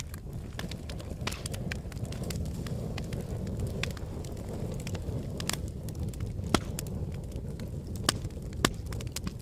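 Wood fire burning in a fireplace: a steady low rumble of flames with frequent sharp crackles and pops, a few louder pops in the second half.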